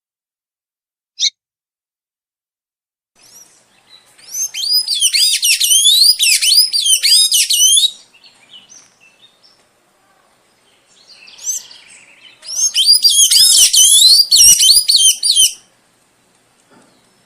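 A songbird singing: a single short high note, then two long bursts of rapid, varied high whistled notes with a pause between them.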